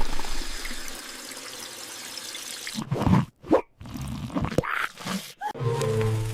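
Cartoon water sound effect: a rush of water, like a flush or pour, fading away, followed by a few short, sudden hits.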